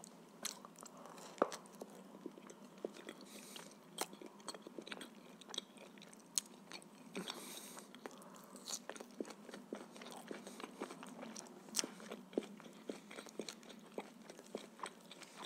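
Close-miked eating: a man chewing and biting bread and pieces of grilled shashlik meat, with many short sharp mouth clicks and smacks throughout.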